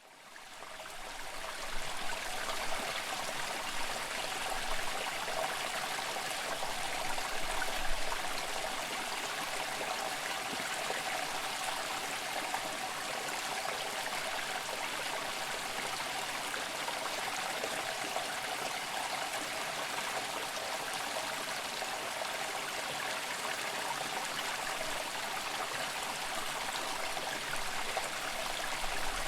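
Running water of a stream, a steady rushing hiss that fades in over the first couple of seconds.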